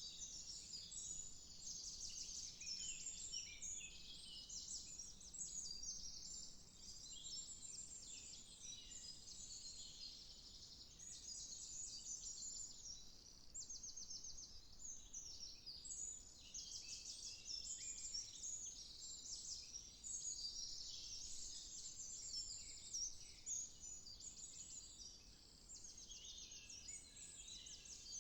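Many songbirds singing at once, with overlapping chirps and rapid trills and no single bird standing out for long.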